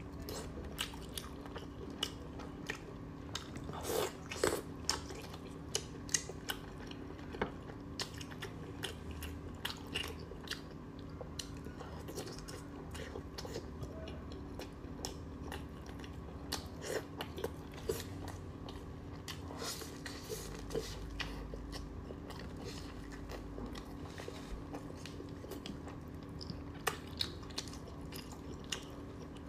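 Close-miked biting and chewing of chicken giblets, a steady run of short sharp clicks and soft crunches. A faint steady hum lies under it.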